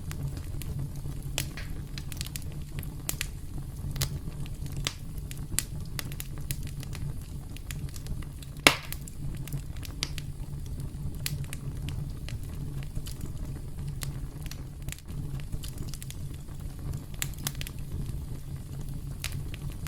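Campfire crackling: a steady low rumble of flames with scattered, irregular pops of burning wood, one sharp pop louder than the rest about halfway through.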